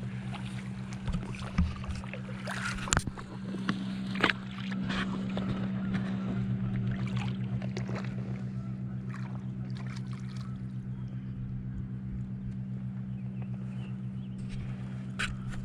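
A motor running steadily with a low, even hum, with a few sharp knocks in the first few seconds.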